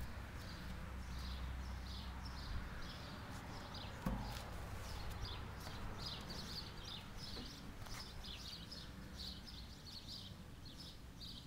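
A small bird chirping repeatedly in short, high notes, over a low rumble, with a single knock about four seconds in.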